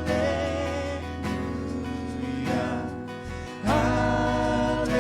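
Worship band playing a gospel song, a singer holding a long "hallelujah" over guitar, bass and keys, with a fresh chord and sung phrase coming in louder about three and a half seconds in.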